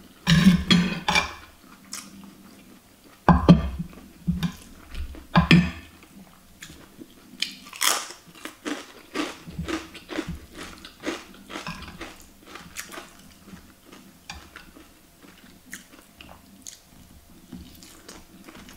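A person chewing close to the microphone and biting into a crisp cracker. After a few louder mouth noises in the first six seconds comes a run of short, sharp crunches, about two a second.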